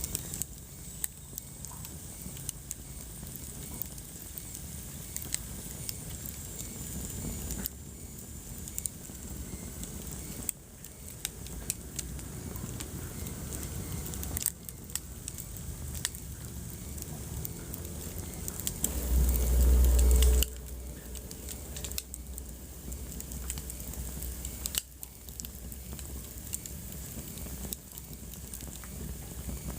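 Wood fire burning in a fireplace, with irregular crackles and pops over a steady low rumble of the flames. About two-thirds of the way through, a louder low rumble lasts about a second and a half.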